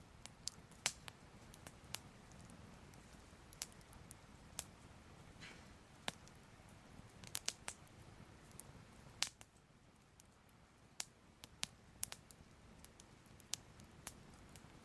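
Soft crackling fire: irregular sharp pops and snaps, a few a second, over a low steady rumble.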